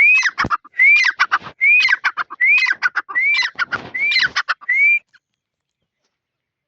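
A bird calling over and over, about seven phrases just under a second apart, each an arched whistle followed by a rapid run of harsh clicking notes; it stops about five seconds in.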